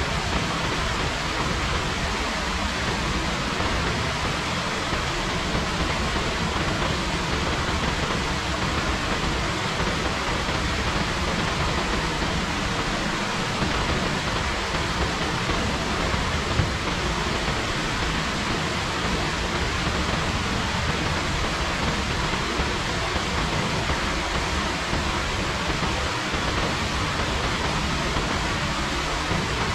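Steady heavy rain: an even hiss that holds the same level throughout, with no separate drops or other events standing out.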